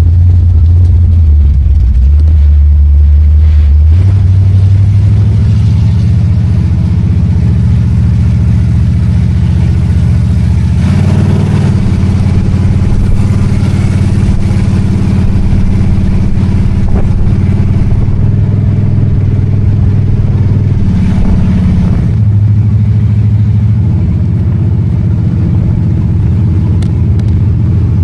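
A 1968 Plymouth Road Runner's V8 engine and exhaust running loud and steady while the car is driven, its note stepping up and down a few times as the car speeds up and slows. The exhaust is still awaiting work at a muffler shop.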